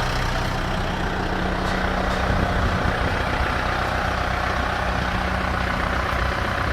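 Kubota M7040 tractor's four-cylinder diesel engine running steadily at an even speed.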